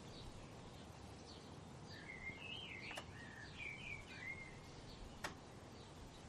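A bird singing a warbling phrase of sliding, up-and-down whistles for about two and a half seconds in the middle, over faint short chirps and a steady background hiss. Two sharp clicks, about two seconds apart, the second being the loudest sound.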